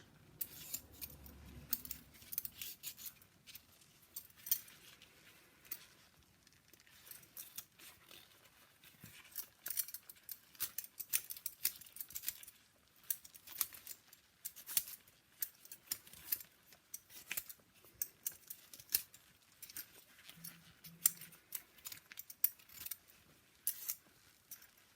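Knife scraping and clicking against a root vegetable as it is peeled by hand: short, irregular strokes, several a second at times, fairly quiet.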